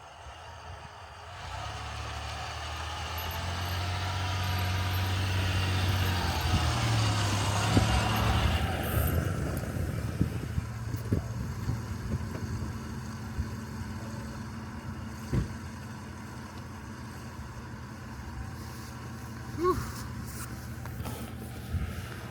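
A truck's engine pulling through deep snow: it revs up over the first several seconds, then settles to a steadier drone, with a few knocks and clunks along the way.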